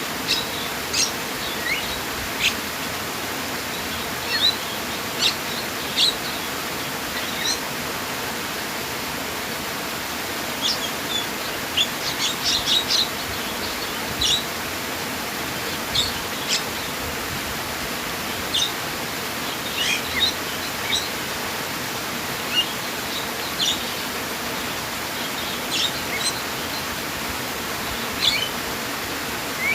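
Small birds chirping, short high calls scattered throughout with a quick run of several about twelve seconds in, over a steady hiss of running water.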